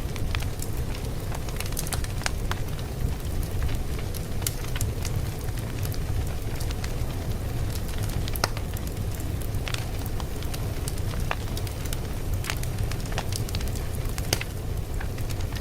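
Wood fire crackling: a steady low rumble of burning, with sharp, irregular pops and snaps scattered through it.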